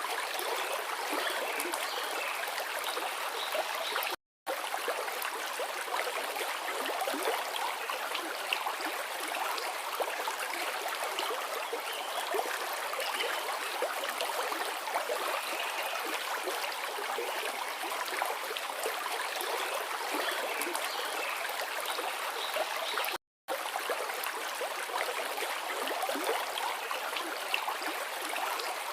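A river rushing and gurgling steadily over rocks. The sound drops out to silence for a moment twice, about four seconds in and near the three-quarter mark.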